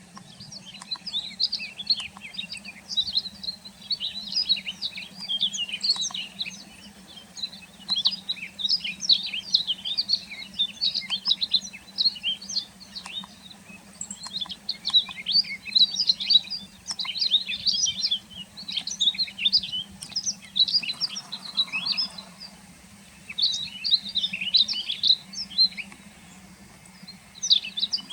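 Rustic bunting singing: bursts of quick, high twittering phrases separated by short pauses, over a faint steady hum.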